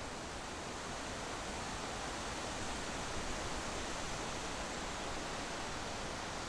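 Steady rushing road and wind noise from a vehicle driving, with no engine note or events standing out.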